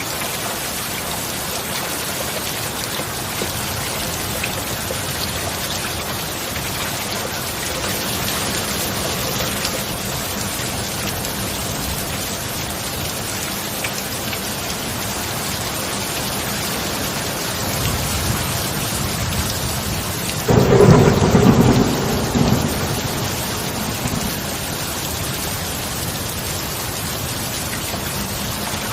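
Steady heavy rain, with thunder rumbling in low from about 18 seconds. A loud thunderclap breaks about 20 seconds in and rolls away over the next few seconds.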